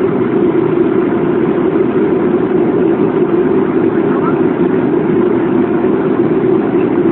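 Steady engine and air noise inside the cabin of a Boeing airliner, an even hum with no change.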